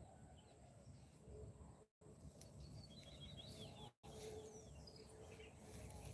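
Near silence with faint, brief bird chirps now and then, mostly in the middle; the sound cuts out completely twice for an instant.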